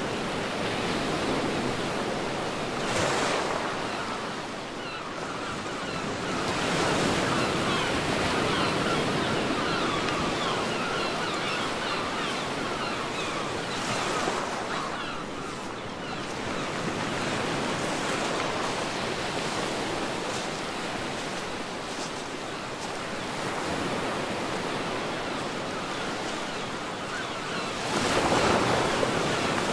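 Ocean waves breaking on a beach: a steady wash of surf that swells and falls back as each wave comes in, with louder breakers about three seconds in, around seven seconds and near the end.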